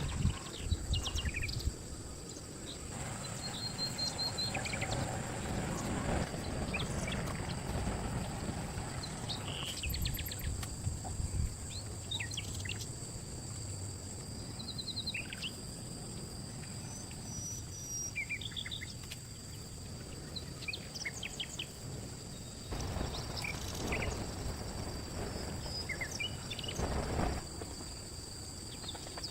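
Outdoor ambience: birds chirping here and there over a steady high insect drone, with a low rumbling background noise that swells briefly twice near the end.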